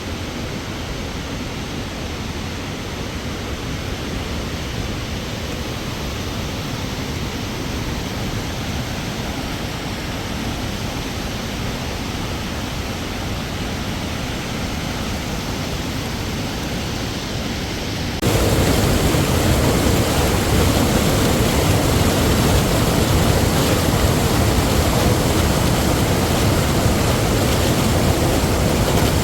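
Waterfall rushing: a steady, even roar of falling water that turns abruptly louder and fuller about two-thirds of the way through.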